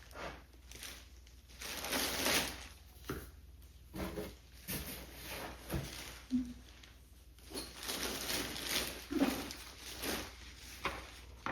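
Packaging rustling and crinkling in irregular bursts as it is handled and pulled apart.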